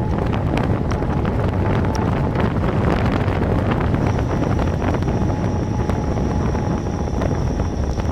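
Wind buffeting the microphone of a camera riding along on a moving bicycle, with a steady low rumble and many small rattling clicks. A faint thin whine joins in about halfway through.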